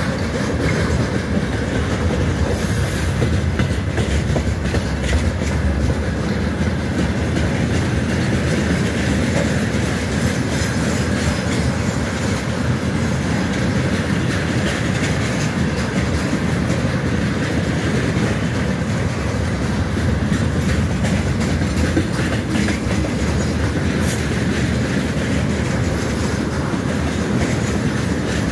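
Freight train tank cars rolling past close by: a steady rumble of steel wheels on rail with a continual clickety-clack as the wheels pass over rail joints.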